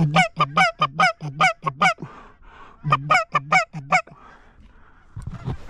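Goose call blown in quick, evenly spaced Canada goose clucks and honks, about four or five a second: a run of about nine notes, a pause, then a shorter run of about five about three seconds in. A low rumble comes near the end.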